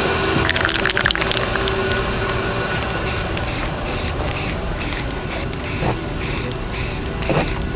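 A run of short hissing spray bursts, about two or three a second, starting about three seconds in, with a quick rattle of clicks near the start.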